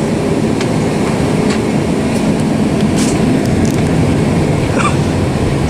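Cabin noise of a Boeing 767-400 taxiing: a steady rumble of the jet engines at low thrust and the wheels rolling over the taxiway, with scattered light clicks and rattles from the cabin.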